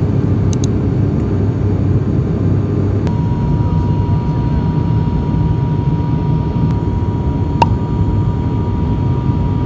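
Steady, loud low rumble of a vehicle's engine, with a thin steady high tone joining about three seconds in and a single click near the end.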